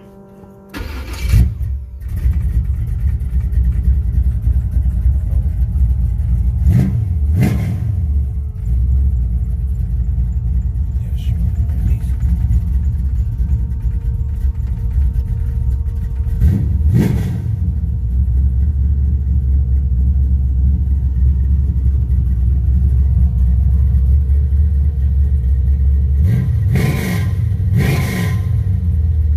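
Carbureted 6.0-litre LQ4 V8 in a 1985 Oldsmobile Cutlass G-body cranking and catching about a second in, then idling with a deep, steady rumble. It is revved in five quick throttle blips: two around seven seconds in, one near the middle, two near the end.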